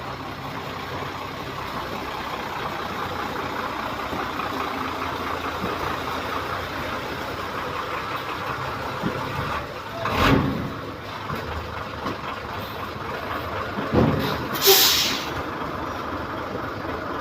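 Steady vehicle and street noise with two loud hissing bursts, about ten and fifteen seconds in.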